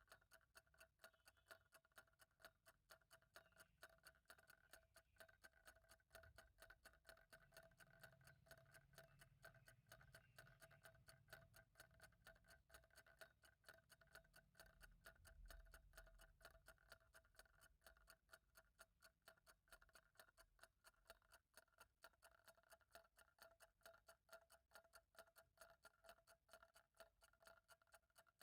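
A clock ticking faintly in quick, even ticks.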